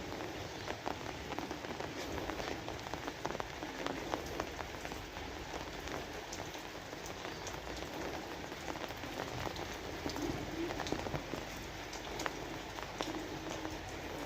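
Steady rain falling, with many separate drops ticking sharply as they strike.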